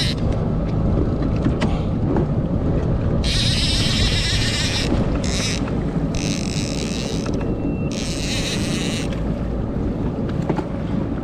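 Boat engine running steadily with wind buffeting the microphone, broken by several bursts of high hiss in the middle.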